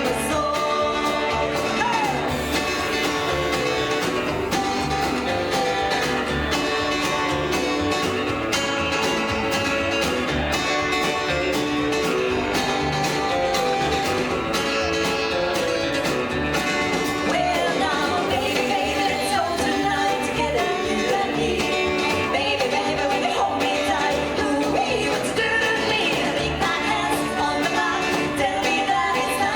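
Live rockabilly band playing an up-tempo song, with guitar and a steady beat.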